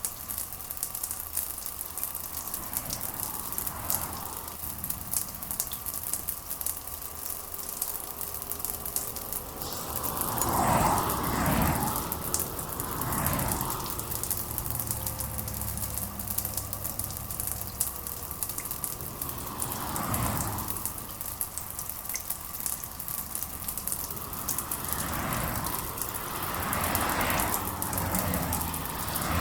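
Steady rain, a dense patter of drops. Several louder swells rise and fall over it, about five in all, the strongest a little over a third of the way in.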